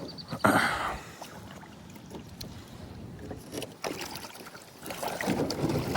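A kayak being paddled: paddle strokes splash and swish in the water, loudest about half a second in and again near the end.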